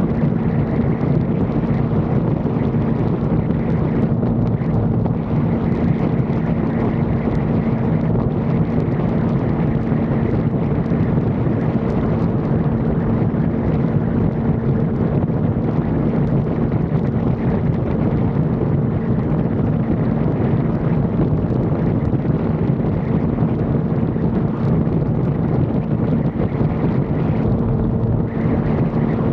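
Yamaha R1 sport bike's inline-four engine running at steady revs while riding, with wind rushing over the microphone.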